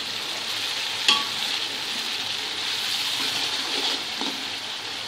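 Onions, tomatoes and green chillies frying in hot oil in a metal pot: a steady sizzle as a spoon is stirred through them, with one sharp knock of the spoon against the pot about a second in.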